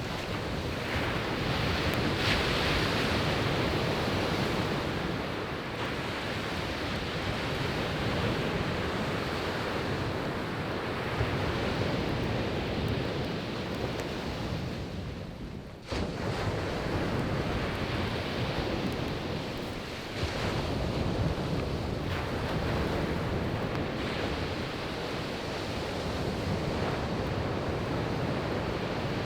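Surf breaking and washing up a beach in a steady, swelling rush, with wind buffeting the microphone. About halfway through the rush fades briefly, then cuts back in abruptly.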